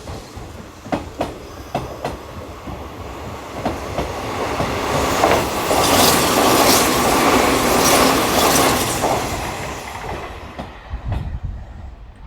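Hanshin electric train at the station: wheels clack over rail joints for the first few seconds. Then a louder rush of a train builds, is loudest in the middle and dies away near the end.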